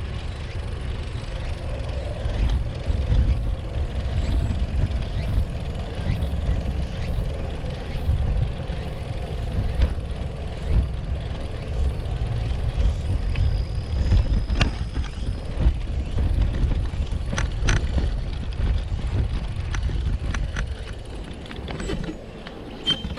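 Wind rumbling and buffeting on the microphone during a ride on a Brompton folding bicycle, with a few light clicks and ticks in the second half.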